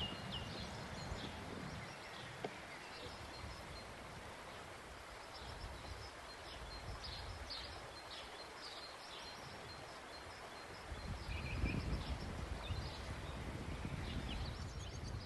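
Small birds chirping in short, repeated high calls over faint outdoor background noise; a low rustling grows louder for a couple of seconds near the end.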